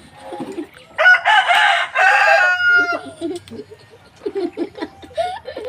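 A rooster crowing once, about a second in, a loud call of about two seconds in two parts.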